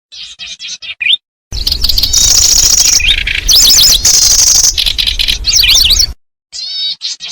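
Kecici belalang lure call: short bursts of high, quickly rising and falling chirps, then a loud middle stretch of fast high trills and chirps over a low rumble, then chirp phrases again near the end.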